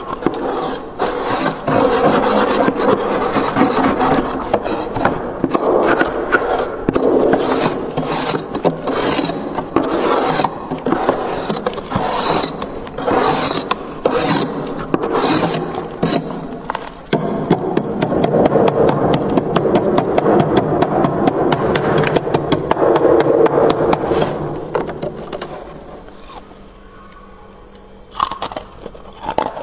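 Frost being scraped off the inside of a freezer: a continuous rasping scrape made of many short crackly strokes, easing off about 25 seconds in, with a few clicks near the end.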